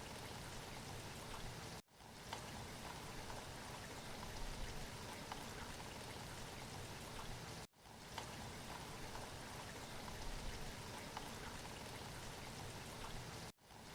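Steady rain falling. It cuts out for an instant three times, about six seconds apart, and comes straight back.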